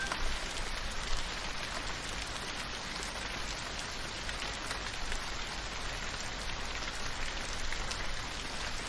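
Steady gentle rain falling, with scattered individual drops ticking.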